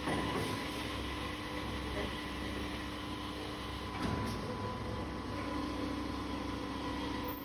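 Automatic copper tube end forming and flattening machine running with a steady hum, with a sharp clunk right at the start and another about four seconds in as the press strokes.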